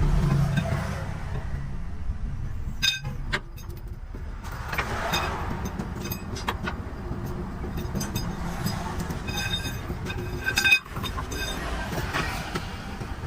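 Low engine-and-traffic rumble, loudest at the start and easing off, with scattered sharp metallic taps and clinks, a few of them ringing briefly.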